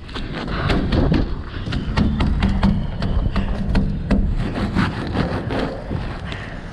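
Wind rumbling on the microphone, with a quick run of small knocks and rustles.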